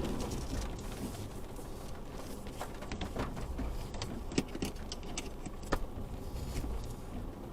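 Low, steady in-cab rumble of an Isuzu D-Max V-Cross pickup crawling offroad, with a few sharp clicks and knocks of cabin rattle or drops on the body scattered through the middle, two of them standing out.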